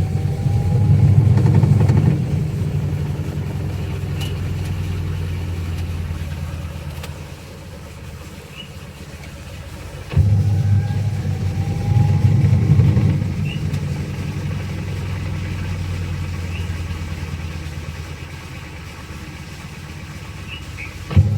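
Fully automatic washing machine's motor running in wash strokes: a hum that kicks in suddenly about ten seconds in and again near the end, loud for a couple of seconds each time before settling to a lower level.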